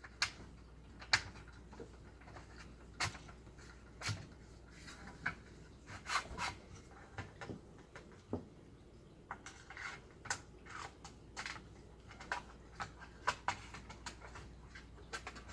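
Irregular small clicks and taps of the parts of a power sliding rear window mechanism being handled and worked into their housing.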